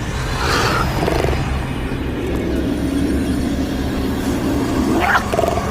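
Horror sound effect: a low rumbling drone with a wavering pitched tone that rises sharply near the end.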